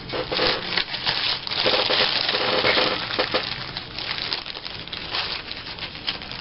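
Paper and sticker sheets being rummaged through by hand: a dense, crackly crinkling and rustling, busiest in the first half.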